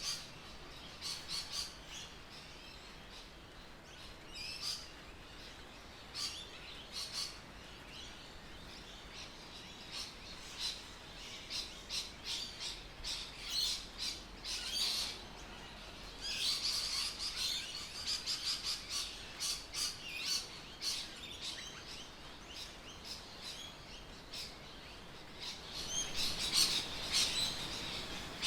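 Birds chirping: many short, high calls in quick succession over a faint steady background, busiest a little past the middle and again near the end.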